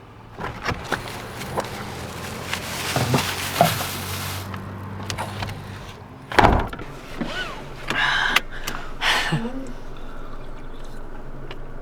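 Clicks and rustling over a low steady hum, then a door slamming shut about six and a half seconds in, followed by a few short squeaky sounds.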